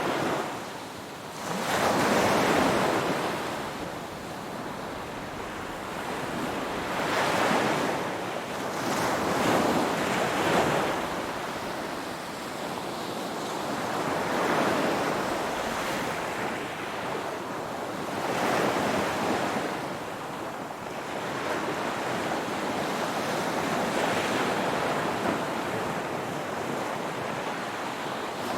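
Ocean waves breaking and washing ashore, each surge swelling and ebbing every few seconds, with a steady rush of surf between them.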